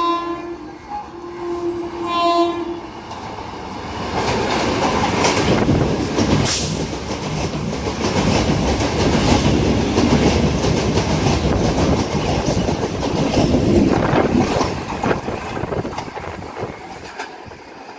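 Electric multiple-unit (EMU) suburban local train sounding two horn blasts as it approaches. It then runs through the station at high speed without stopping, with a loud rush of wheels and rapid clickety-clack over the rail joints that drops away near the end.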